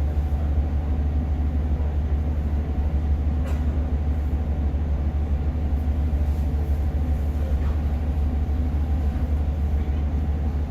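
Cabin noise inside a Class 150 diesel multiple unit under way: a steady low rumble from the underfloor diesel engine and wheels on the track, with a single light click about three and a half seconds in.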